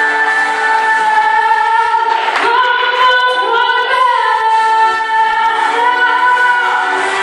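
Female vocal singing with long held notes and a few slides between pitches, loud and steady throughout.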